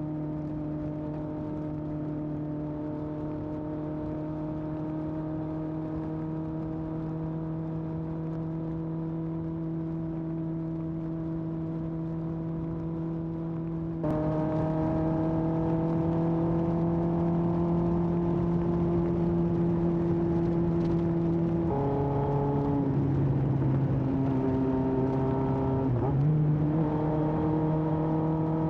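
Exhaust note of a 1981 Honda CB750F's air-cooled inline four through a period Yoshimura muffler, holding steady cruising revs. It gets louder and brighter about halfway through; later the pitch drops for a few seconds and then climbs back, as with a gear change.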